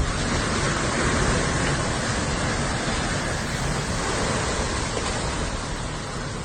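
Steady rushing wind noise, as of a dust devil's wind blowing across the microphone.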